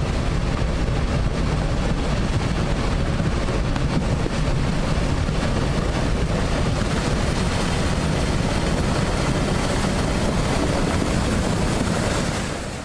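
Steady rush of fast-moving floodwater, an even noise that holds at one level throughout and fades out near the end.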